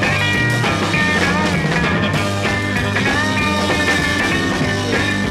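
Rock music in an instrumental break between sung lines: electric guitar with bending notes over a steady bass line.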